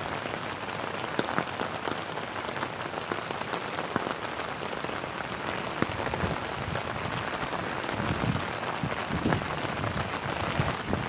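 Steady rain falling, with many single drops ticking close to the microphone.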